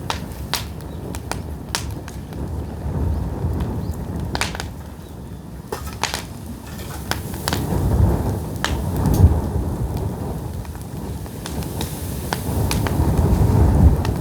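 Pine firewood burning, the wood crackling and popping in sharp irregular snaps over a low rumble of the flames, which swells about eight seconds in and again near the end.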